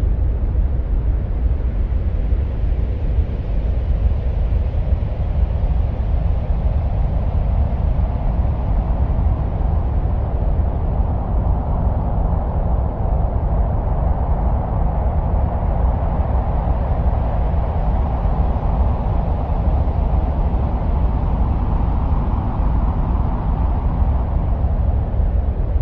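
Steady, deep wind-like rumble presented as the sound of Mars, with a higher hiss that swells through the middle and eases off again near the end.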